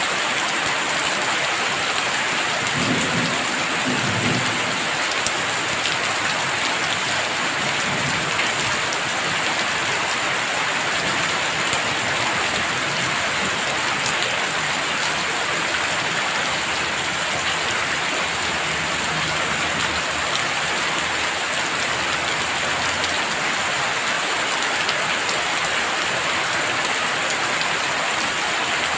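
Heavy rain falling steadily, an even hiss of drops on surfaces. Low rumbles of thunder come a few seconds in and again past the middle.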